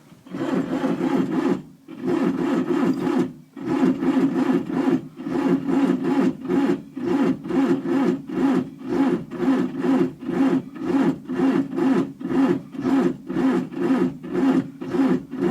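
The starter of a Fiat 780 DT diesel tractor cranking the cold engine slowly, about two compression strokes a second, without it firing. It stops briefly twice in the first few seconds, then cranks on steadily. The battery has too little power to spin the engine fast enough to start.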